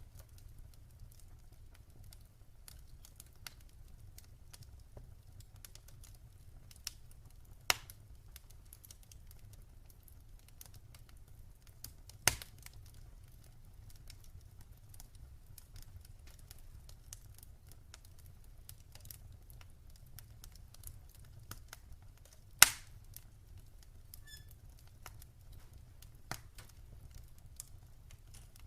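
Wood fire in a fireplace crackling: many small scattered snaps, with three louder sharp pops spread through, over a low steady rumble.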